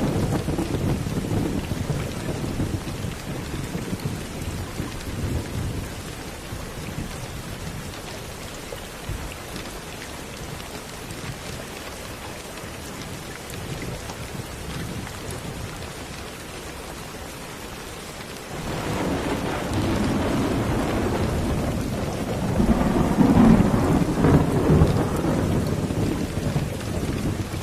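Steady rain falling, with thunder rumbling. A roll of thunder dies away over the first few seconds, and another rises suddenly about two-thirds of the way through, loudest near the end.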